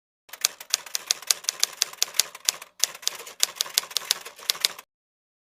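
Typewriter keys clacking, about four or five strikes a second, in two runs with a short break about halfway. The runs start and stop abruptly.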